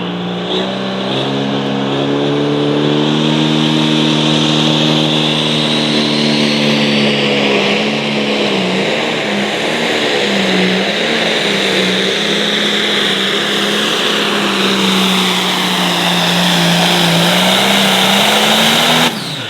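John Deere 5020 light-limited pro stock pulling tractor's diesel engine running hard through a pull. Its pitch holds steady at first and wavers up and down from about eight seconds in as the load changes, then the sound stops abruptly near the end.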